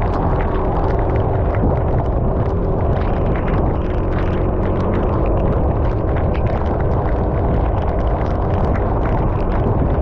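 Motorcycle riding through heavy rain: steady wind rumble on the microphone, with a faint steady engine tone beneath and many quick taps that fit raindrops striking.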